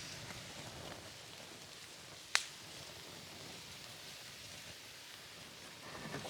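Wood campfire crackling with a steady soft hiss, and one sharp pop about two and a half seconds in.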